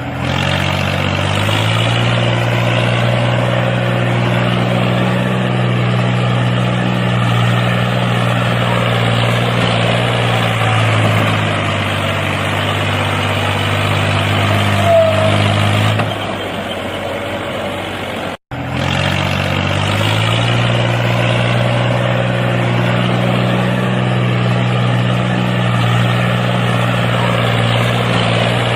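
Engine of a homemade mini tractor running steadily. The sound cuts out abruptly for an instant about two-thirds of the way through, then resumes.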